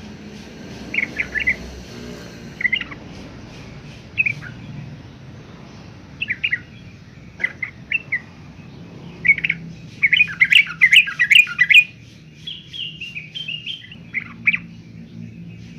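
Yellow-vented bulbul calling: short bubbly chattering phrases at irregular intervals, with a longer, denser run of notes about ten seconds in.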